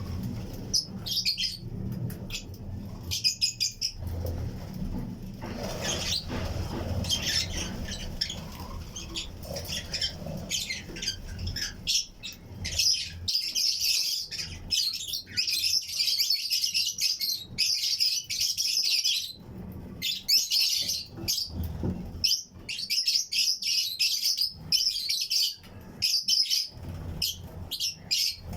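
A colony of Fischer's and lutino lovebirds chirping: dense, rapid high chirps that grow busier and more continuous about twelve seconds in. A low rumble sits under the first half.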